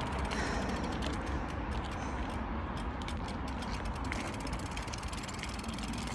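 BMX rear hub freewheel ticking rapidly as the bike coasts, over a steady low rumble of tyres and wind.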